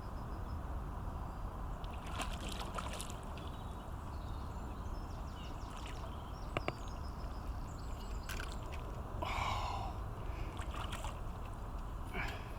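Water splashing and sloshing a few times as a large hooked carp thrashes at the surface during the fight, over a steady low rumble.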